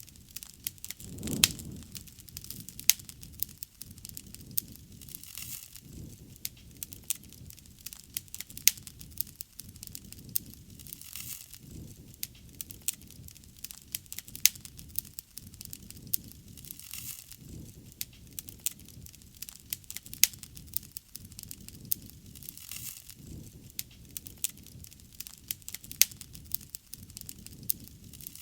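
Wood fire crackling, with many sharp pops over the low rush of the burning flames; the rush swells louder about a second and a half in.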